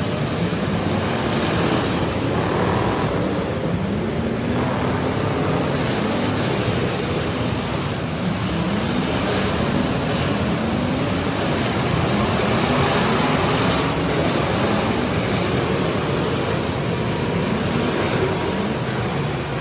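Several demolition derby cars' engines revving over and over, their pitch climbing and dropping again, over a steady loud din.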